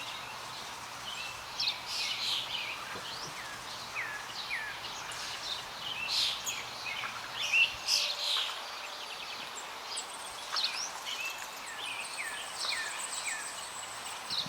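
Several wild birds chirping and calling, many short high notes and quick down-slurred chips overlapping. A thin steady high tone joins about two-thirds of the way in.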